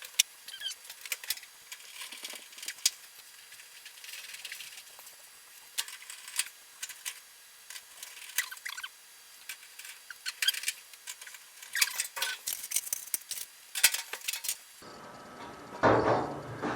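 Irregular light clicks, taps and small metallic clinks of screws, tools and panel parts being handled as a washer-dryer combo is put back together. A fuller knock comes near the end.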